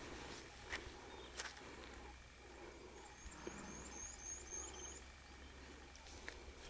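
Quiet open-air background with a small bird giving a quick run of about eight high chirps over roughly two seconds in the middle, and a few faint clicks.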